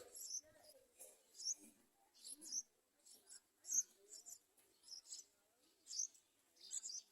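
Yellow-vented bulbul nestlings begging in the nest: short, thin, high-pitched squeaks repeated at uneven intervals, about one or two a second.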